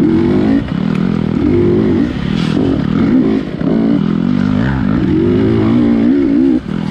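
Dirt bike engine under constant throttle changes, its pitch rising and falling over and over and wavering quickly about two-thirds of the way in, with a brief drop near the end.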